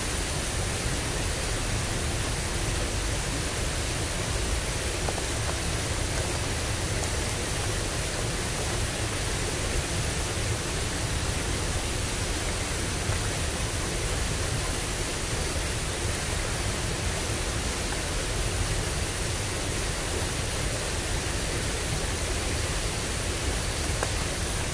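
Steady, unbroken rushing of flowing water in a small ditch swollen after rain.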